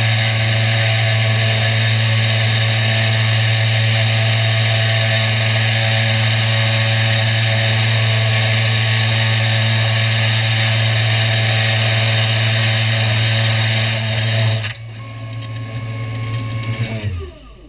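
CNC 3018 router spindle running steadily as it mills Finnish board, a loud motor hum under a hiss of cutting. Near the end the cutting noise stops abruptly, and the spindle slows and winds down with a falling tone as the job finishes.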